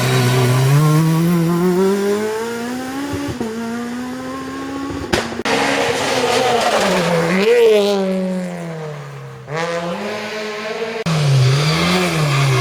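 Rally car engine running hard on a stage, its pitch climbing under acceleration and dropping back at gear changes and lifts several times over. The sound breaks off suddenly a few times and picks up again with a car at a different pitch.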